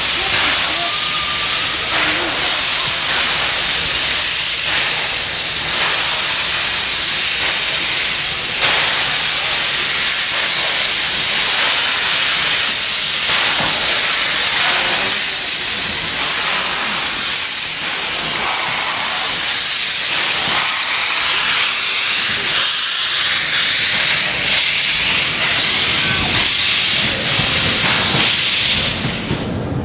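Steam locomotive letting off steam: a loud, continuous hiss of escaping steam, which cuts off suddenly near the end.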